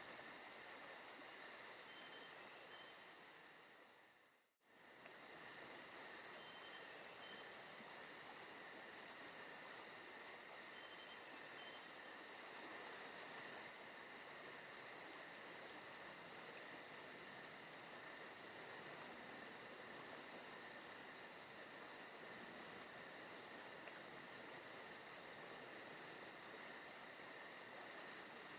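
Faint forest ambience: a steady, evenly pulsing chorus of crickets, with a few faint short chirps in pairs. About four seconds in, the sound briefly fades out and comes back.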